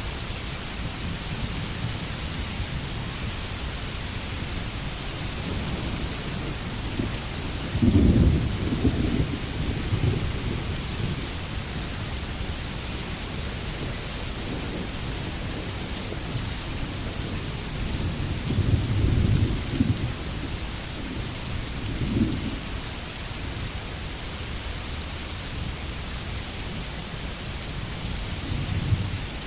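Steady rain hissing throughout, with several low rumbles of thunder. The loudest rumble comes about eight seconds in, a second strong one comes around nineteen seconds, and shorter ones follow later.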